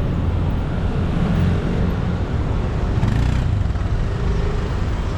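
Steady engine running and road traffic noise, heard from a vehicle weaving through dense city traffic.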